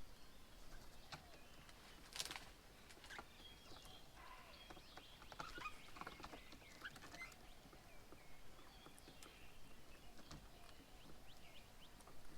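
Faint, scattered chirps and short calls of small birds, with one sharp click about two seconds in.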